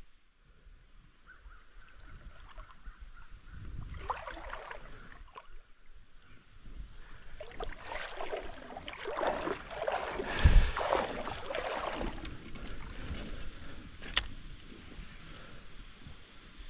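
Shallow river water sloshing and splashing around a wading angler's legs in uneven surges, with one heavy thump about ten seconds in and a sharp click a few seconds later.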